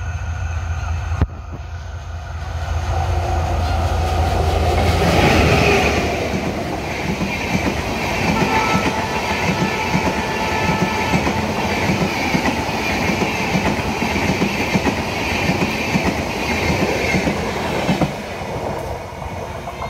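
Diesel-hauled passenger train passing close by. The locomotive's engine grows louder as it approaches and peaks about five seconds in. Then the coaches run past with a steady, rhythmic clickety-clack of wheels over the rail joints, which falls away near the end.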